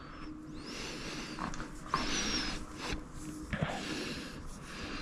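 Quiet handling of small engine parts, camshaft bearing caps being set down and moved about: a few light clicks and a short scraping squeak, with soft hissing breath-like sounds between them.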